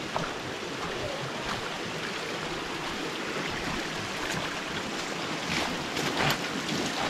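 Swift creek water rushing steadily, with a few short, sharper sounds about four to six seconds in.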